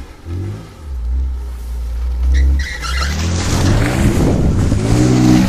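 An off-road 4x4's engine revving hard under load. About three seconds in it grows louder and rougher, the pitch rising and falling, with a rush of noise on top.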